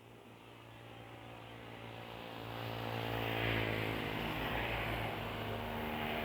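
A motor vehicle approaching and passing: engine drone with tyre noise, growing louder over the first three seconds and staying loud, its pitch dropping slightly as it goes by.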